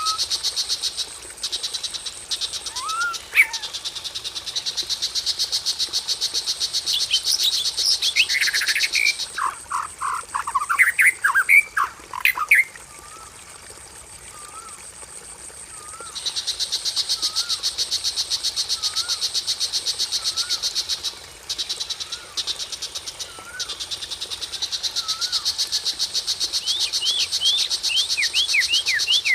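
Songbird calls over a fast, even, high pulsing trill that cuts out a few times. There are scattered whistles and bursts of chirps, then a soft wavering note repeated about every second and a half, and quick falling chirps near the end.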